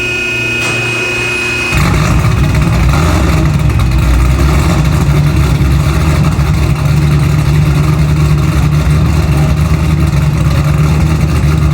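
Cammed 427 LSX V8 running loud through full 3-inch straight pipes, a heavy low rumble that cuts in suddenly about two seconds in, after a short stretch of music.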